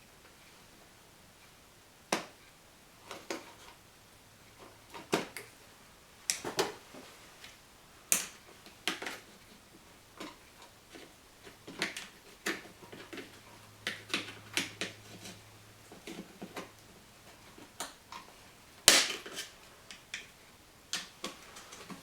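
Irregular sharp clicks and taps as retaining clips are pried loose from under a car's rubber hood seal by hand and tool, with one louder snap about nineteen seconds in.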